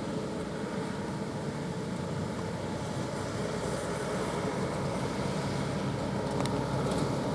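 Goods truck engine running steadily with a low, even hum, growing a little louder toward the end.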